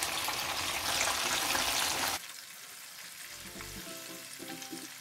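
Chicken kebab patties sizzling as they fry in hot oil, the sizzle cutting off suddenly about two seconds in. Quiet background music with repeating notes follows.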